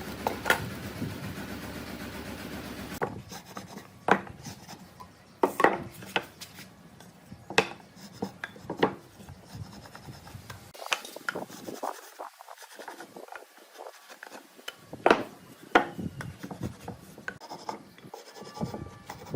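Workshop handling sounds: scattered knocks, clicks and rubbing of wooden pieces being moved and worked by hand. A steady machine noise runs at first and cuts off about three seconds in.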